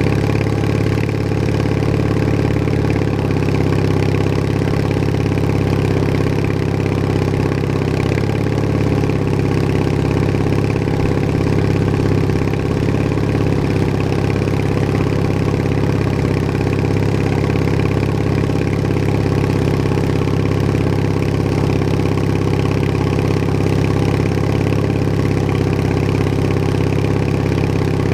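Bolens HT20 garden tractor engine running steadily while the tractor drives, with a slight change in engine speed about three seconds in.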